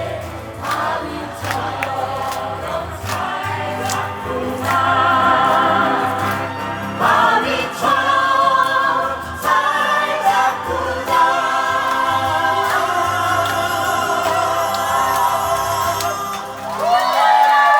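A group of voices singing a Korean people's song (minjung gayo) in chorus over a band accompaniment, with a steady bass beat underneath.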